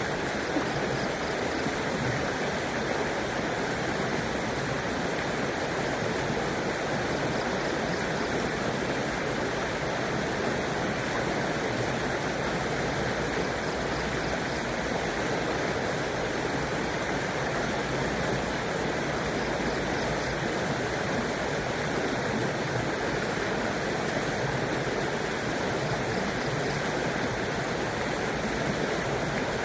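River water flowing and rushing steadily over its bed, an even, unbroken sound.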